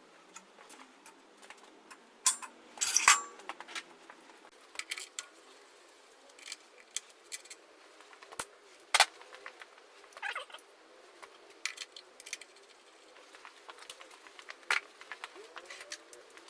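Hand tools and metal parts being handled during engine assembly: scattered metallic clinks and clicks, with a short clattering burst about three seconds in and a sharp click around nine seconds.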